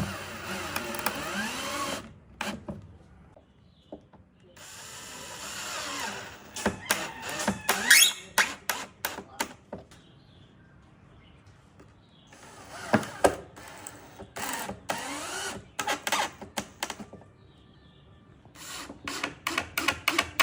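Handheld power drill running in several short bursts, its pitch bending up and down as the speed changes. Between and after the bursts come quick runs of sharp clicks.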